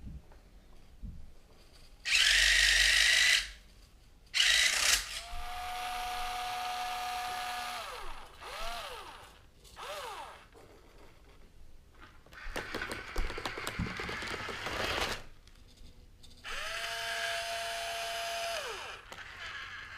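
Small electric gear motors of a modified Hobby Engine HE0715 RC track loader whining in repeated bursts as it drives and works its arm and bucket. Each whine climbs in pitch as the motor starts and drops away as it stops. A loud whirring burst comes early on, and there is a stretch of rough scraping a little past the middle.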